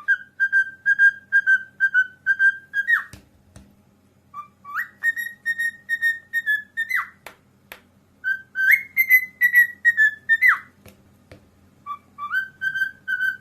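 A parrot whistling: four phrases of short notes repeated about three times a second at one steady pitch, each phrase opening with a rising note and ending with a quick slide.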